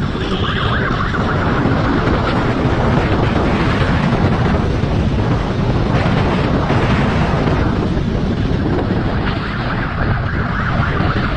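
Motorcycle riding fast, its engine noise mixed with heavy wind rush on the microphone.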